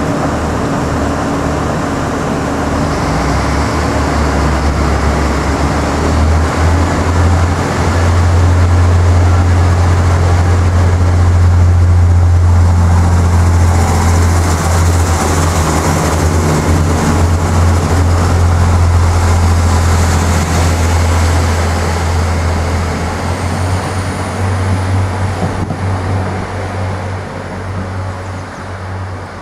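Irish Rail 29000 class diesel multiple unit's engines running, a loud low drone that builds over the first several seconds, holds steady, then fades in the last few seconds as the train draws away.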